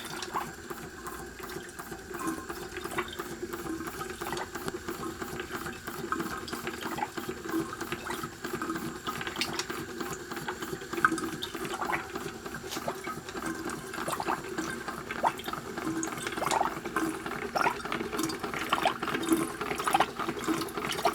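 Large homemade hot air engine running steadily and driving its water pump, its mechanism ticking in a fast, even rhythm while the pump sloshes and gurgles water. The engine runs without having been oiled.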